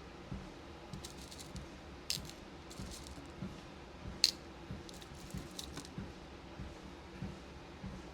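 Small beads and pins clicking and tapping as they are handled and sorted, with a few sharper clicks, over soft regular footfalls on a walking pad.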